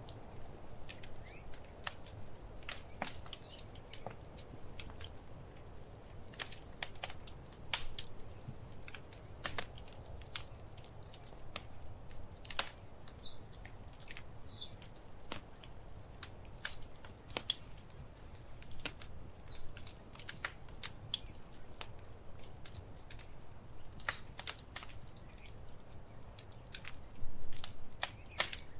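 Wood fire crackling: irregular sharp snaps and pops over a low steady rumble of the flames, with a louder burst of pops near the end.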